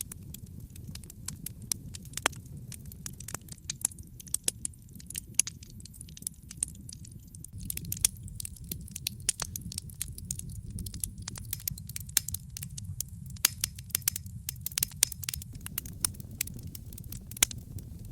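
Wood fire crackling in a fireplace: a dense run of sharp pops and snaps, a few much louder than the rest, over a steady low rumble of the flames.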